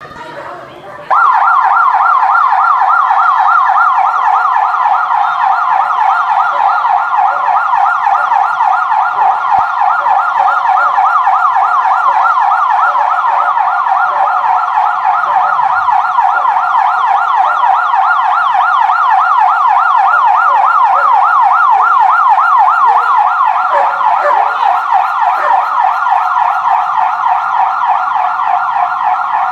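Police car siren sounding in a fast yelp, its pitch sweeping rapidly up and down over and over. It comes on suddenly about a second in and runs on loud and steady.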